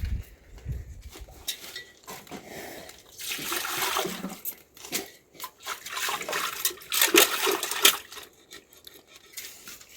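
Water pouring and splashing in several bursts, loudest a few seconds in and again near the middle.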